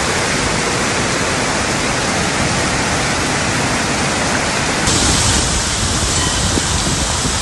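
Rushing floodwater from a flash flood, a steady noisy rush. About five seconds in it turns abruptly louder and hissier.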